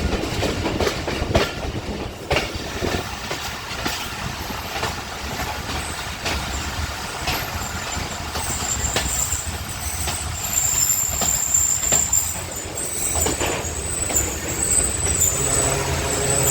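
Passenger train coaches rolling slowly over the rails, with irregular clacks from the wheels on rail joints. About halfway through a high-pitched squeal of wheels and brakes joins in and runs on, typical of a train braking to a stop.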